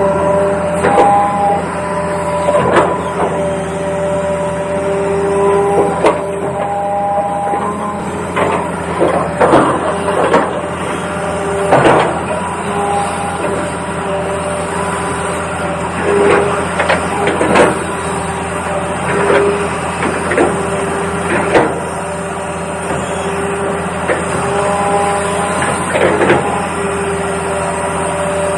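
Remote-control toy excavator working: its small electric motors whine at a few fixed pitches, switching on and off every second or two, with frequent sharp plastic clicks and knocks.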